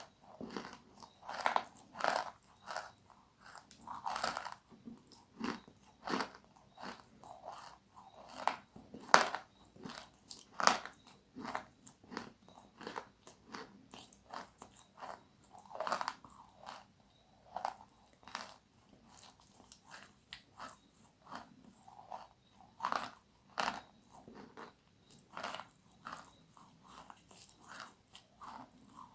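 Crispy food being bitten and chewed close to the microphone: a steady run of sharp crunches, one or two a second, some bites louder than others.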